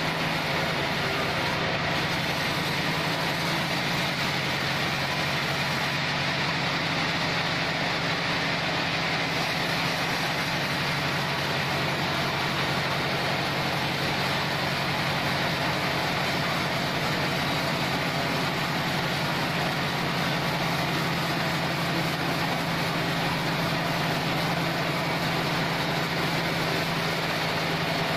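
Log band sawmill running steadily: a constant machine drone with a low hum that does not change.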